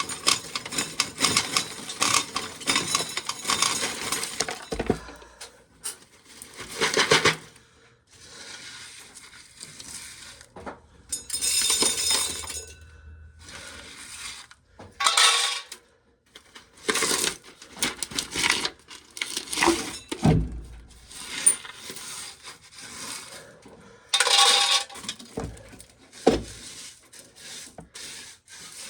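Dry shelled corn kernels pouring and rattling into pails, in irregular bursts a second or two long with short pauses between.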